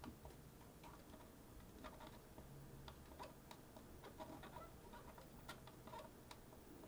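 Near silence with faint, irregular light clicks and ticks scattered through it.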